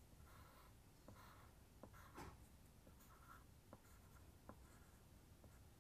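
Faint scratching of short drawing strokes on paper, with a few light ticks as the tool touches down.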